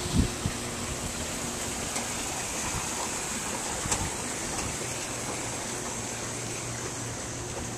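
Steady rushing noise of hurricane wind and rain, with a low thump at the start and a sharp click about four seconds in.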